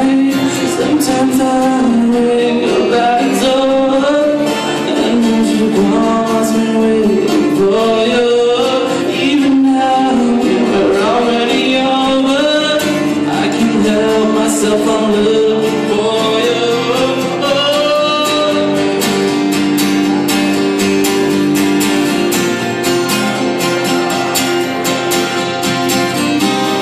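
Live acoustic cover of a pop ballad: an acoustic guitar is strummed under a singing voice that slides through the melody. In the later part the voice holds long notes.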